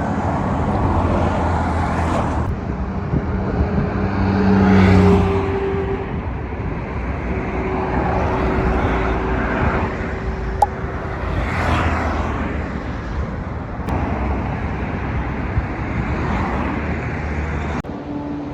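Busy road traffic: vehicles passing one after another in loud swells, with a horn held for a couple of seconds twice in the first half.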